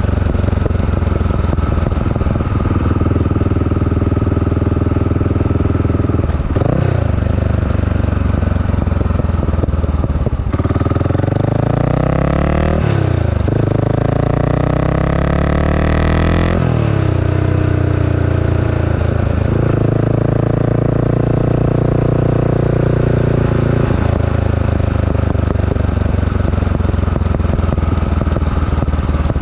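Honda GB500's single-cylinder four-stroke engine running under way on a ride, mostly steady. Around the middle it pulls harder, its pitch rising and dropping back a few times as it goes through the gears, then settles again.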